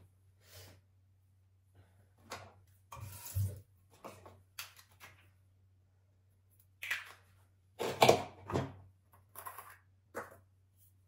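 Household objects being handled: an irregular run of short rubs, knocks and clatters, the loudest about eight seconds in, over a faint steady low hum.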